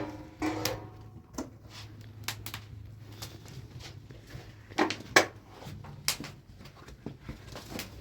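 Irregular knocks and clicks of objects being handled, about ten over several seconds and the loudest about five seconds in, over a low steady hum.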